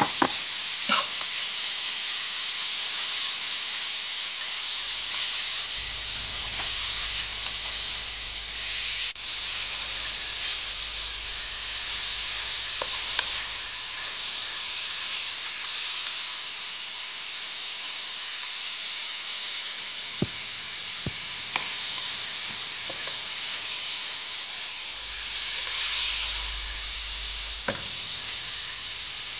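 Pork belly and sliced onion sizzling steadily in hot oil in a wok, with a few brief knocks and scrapes of a wooden spatula stirring them.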